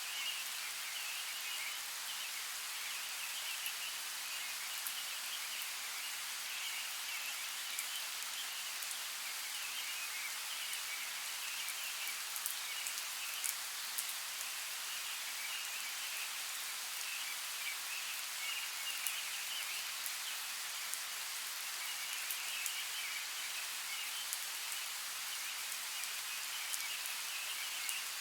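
Steady hiss of water with scattered drip-like clicks. A faint chattering sound comes and goes in patches throughout.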